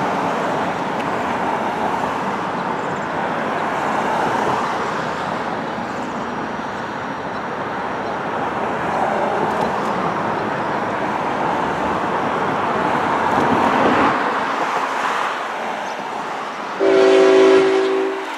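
Steady noise of a train or passing traffic, then a short, loud multi-tone train horn blast of about a second and a half near the end.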